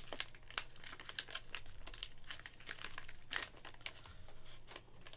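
A sports-card pack wrapper being torn open and crinkled by hand: a run of irregular crackles and rustles.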